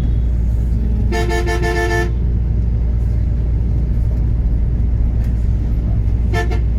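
Steady low engine and road rumble from a motor vehicle. A vehicle horn toots for about a second, starting about a second in, and gives one more short toot near the end.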